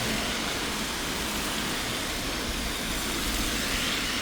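Steady hiss of rain mixed with city traffic, tyres swishing on a wet street, swelling slightly near the end as a vehicle passes.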